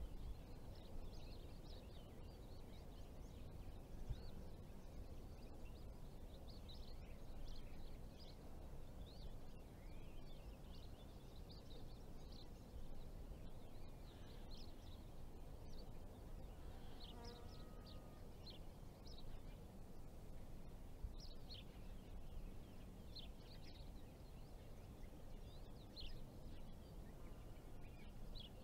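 Faint outdoor ambience: small birds chirping here and there over a low, steady rumble of open air. A short pitched call sounds once a little past the middle.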